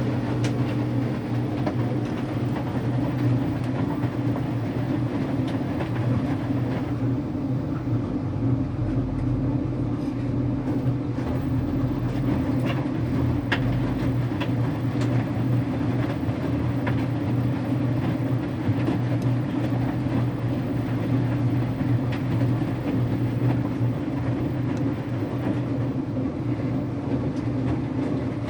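Electrolux Wascator W355H front-loading washing machine running, a steady motor hum with faint scattered clicks.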